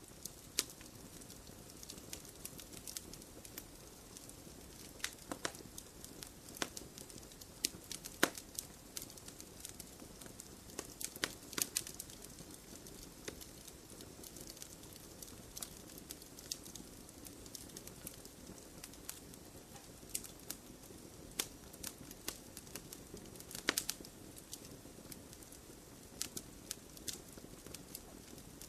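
Campfire burning in a stone fire pit: a steady low hiss of flames with irregular sharp crackles and pops from the burning wood, a few louder pops scattered through.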